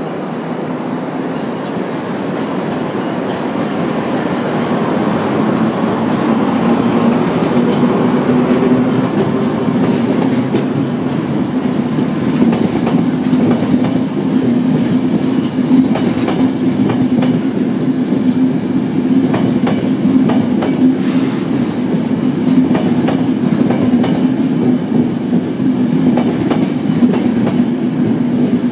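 Electric-hauled passenger train of night-train coaches rolling past along a platform: a steady rumble that grows louder over the first several seconds, then holds, with the clickety-clack of wheels over rail joints as the coaches go by.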